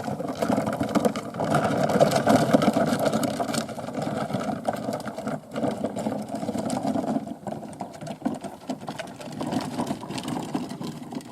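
A small motor or engine running with a fast, steady rattle, easing off slightly near the end.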